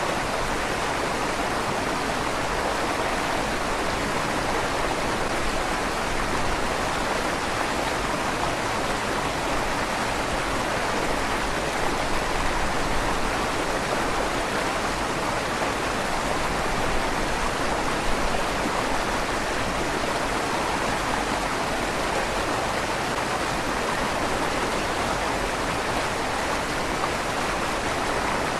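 River water flowing steadily through a stone tunnel beneath a bridge, a constant rushing with a slight echo from the stone walls.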